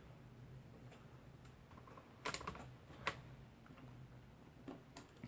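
A few light, sharp clicks and ticks from handling small plastic network-wiring parts and tools, two louder ones a little under a second apart in the middle, over a faint steady hum.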